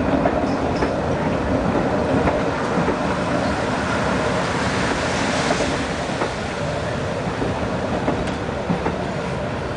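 Wooden passenger carriages of the Sóller–Palma railway rolling slowly along the track, a steady rumble of wheels on rail with occasional faint clicks.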